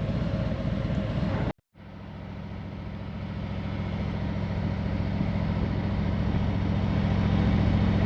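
Motorcycle engine running steadily at an even pitch. It drops out completely for a moment about a second and a half in, then comes back and slowly grows louder.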